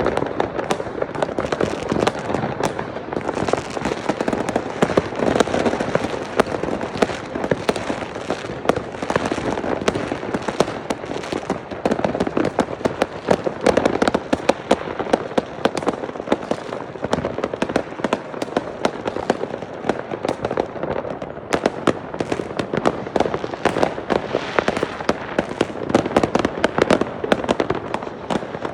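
Many consumer fireworks and firecrackers going off at once across a neighbourhood: a dense, unbroken barrage of overlapping cracks, bangs and crackling.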